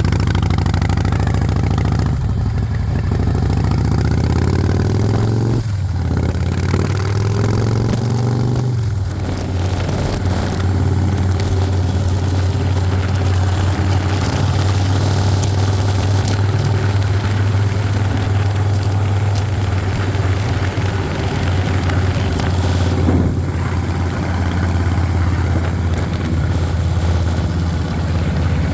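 Motorcycle engine running under way; its note steps up and down a few times in the first nine seconds, then holds steady.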